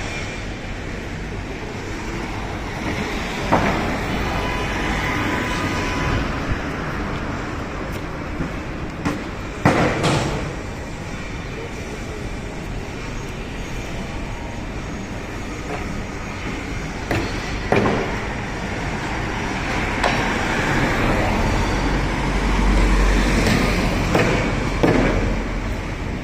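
Building-site noise from a hotel tower under construction: a steady mechanical rumble of machinery and traffic, broken by a few sharp knocks, with the low rumble swelling near the end.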